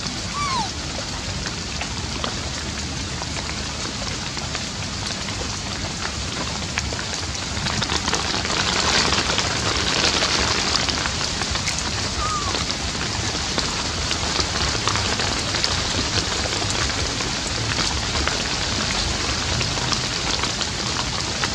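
Steady rain hissing with scattered drop ticks, growing heavier about eight seconds in. A brief falling chirp sounds twice over it.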